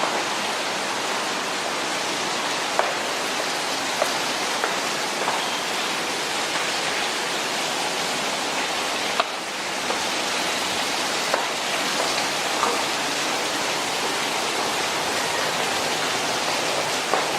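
Heavy rain pouring down steadily, with a louder drop or drip landing close by now and then.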